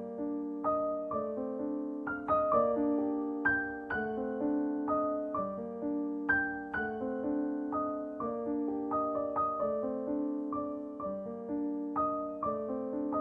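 Background piano music: gentle electric-piano notes played in a steady, even rhythm.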